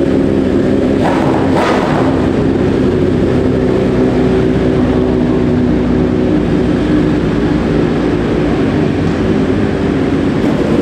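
Several motorcycle and car engines running together as the vehicles pull out, a steady layered engine drone with a brief burst of extra noise about a second and a half in.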